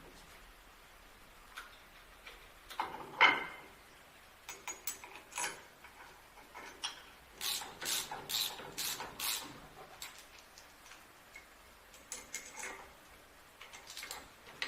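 Scattered mechanical clicks and knocks, with a louder knock about three seconds in and a run of five sharp clicks, about two a second, in the middle.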